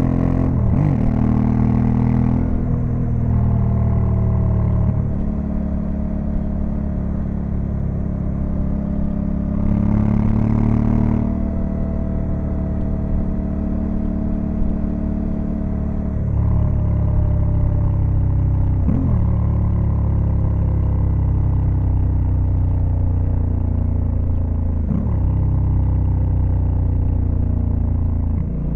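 Honda Africa Twin CRF1100L's parallel-twin engine running under way, its note sliding slowly in pitch, with brief sharp dips about a second in and again around 19 and 25 seconds in.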